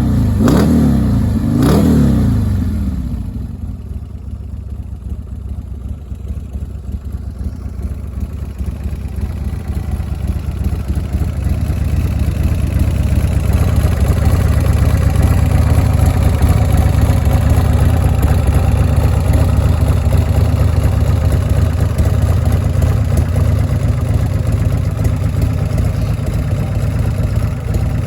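Buell motorcycle engine running, blipped twice quickly near the start, then settling into a steady run that gradually grows louder and holds.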